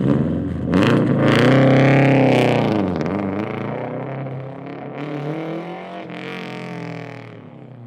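A car engine revving. Its pitch dips about three seconds in and climbs again, then the sound fades away near the end.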